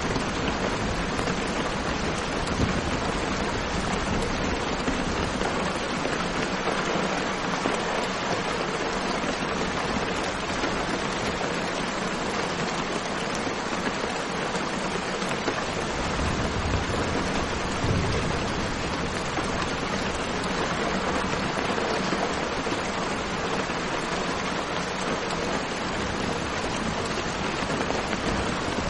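Steady rainfall: a dense, even hiss of rain with no break in its level.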